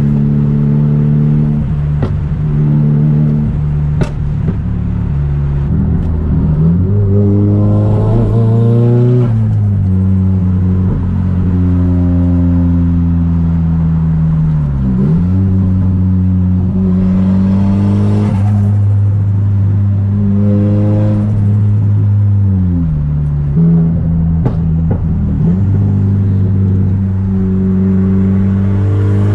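Straight-piped Nissan Silvia S15's SR20DET turbocharged four-cylinder engine under way, its pitch climbing steadily as it accelerates, then falling sharply at shifts or lift-offs: once about nine seconds in, with a dip-and-recover around fifteen seconds and another drop near twenty-three seconds. In between, it holds steady cruising revs.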